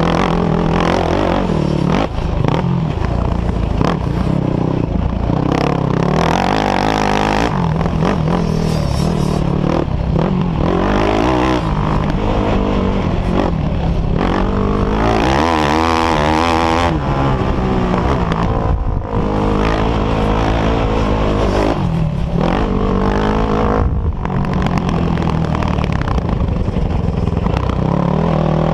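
Off-road engines of a sport quad and dirt bikes running hard, their pitch rising and falling as the throttle is worked, with a sweeping rise and fall in pitch about halfway through.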